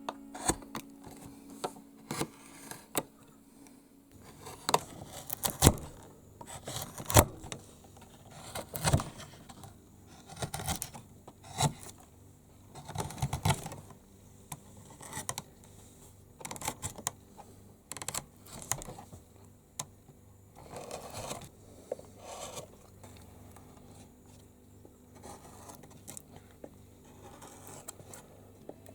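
Carving chisels cutting and scraping wood by hand: irregular sharp clicks and short scrapes, a few longer scraping strokes among them.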